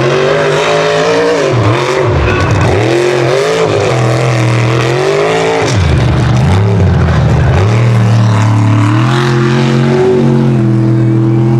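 Unlimited-class mega truck engine revving hard, its pitch swinging up and down with repeated throttle stabs for about six seconds, then holding a steadier, higher note.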